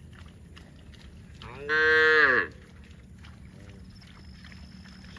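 A cow mooing: one short, loud call about a second and a half in that rises and then falls in pitch, followed by a much fainter short moo, over a steady low rumble.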